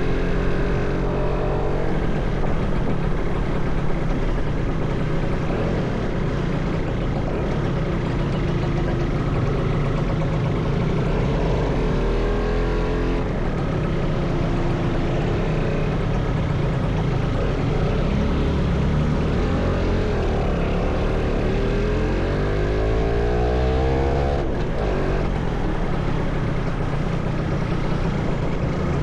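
Motorcycle engine running while riding in traffic, with steady road and wind noise. The engine note climbs several times as it accelerates, the longest rise coming late on.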